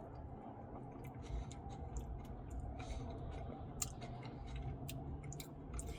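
Faint eating sounds of a person working through an Oreo fudge brownie Blizzard: soft chewing with scattered light clicks.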